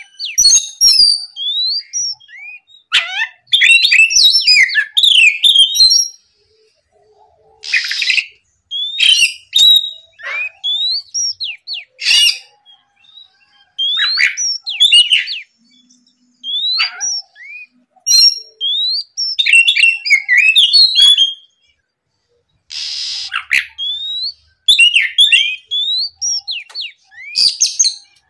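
Oriental magpie-robin (kacer) singing in short phrases of clear, rising whistled notes separated by brief pauses, with two short harsh notes in between.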